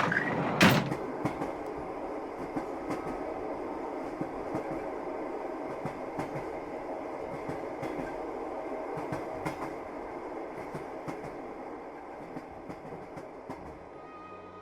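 Train wheels running over rail joints in a steady clickety-clack rumble, with a sharp loud bang about half a second in.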